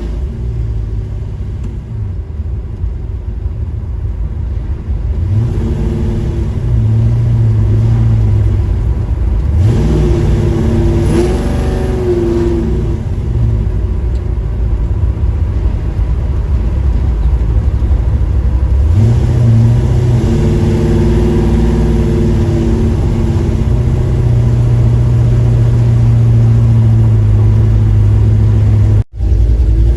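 1977 Chevrolet Camaro engine and exhaust under way, climbing in pitch several times as the car accelerates, then running steadily. There is a brief dropout near the end.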